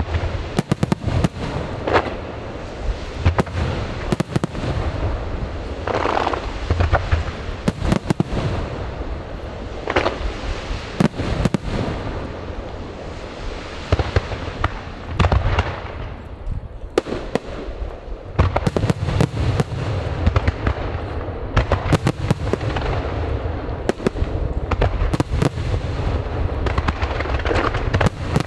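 Aerial fireworks going off in a rapid barrage: repeated bangs and booms with runs of crackling over a constant low rumble.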